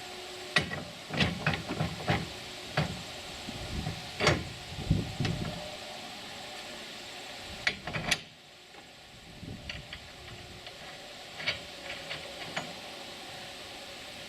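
Irregular knocks and clanks of the metal parts of a homemade truck-bed crane being handled and fitted together, over a steady hiss. The knocks come thickly for about eight seconds, then only a few lighter ones follow.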